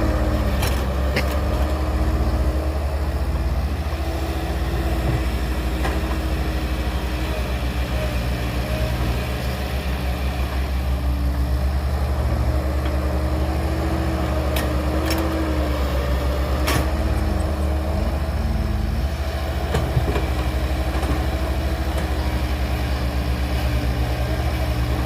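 Heavy diesel engine of construction machinery running steadily, a low drone whose pitch wavers slightly, with a few sharp knocks near the start and around the middle.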